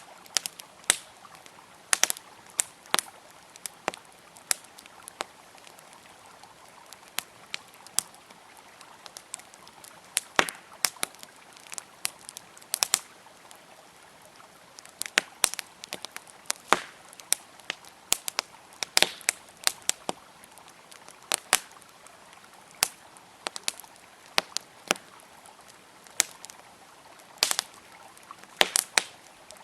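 Campfire crackling, with irregular sharp pops and snaps several times a second, over the steady sound of a flowing river.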